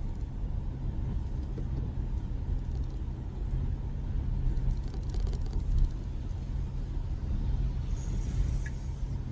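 Steady low road and tyre rumble inside the cabin of a Tesla Model Y electric SUV driving along the road.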